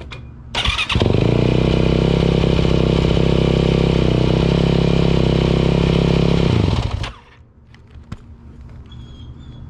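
2018 Yamaha YZ450F's single-cylinder four-stroke engine starting just under a second in, freshly filled with oil and run to warm it up; it idles steadily for about six seconds, then is shut off.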